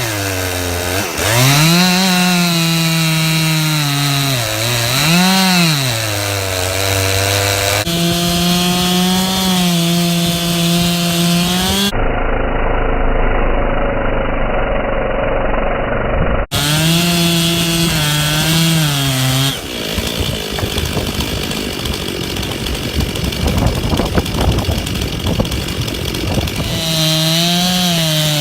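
Chainsaw running under load through a thick ash trunk, its engine pitch sagging and recovering again and again as the bar bogs in the cut. In the second half there is a stretch of rough, noisy rumble without a clear engine tone.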